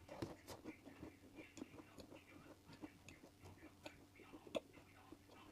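Quiet chewing with scattered soft clicks at a few per second, one a little louder about four and a half seconds in.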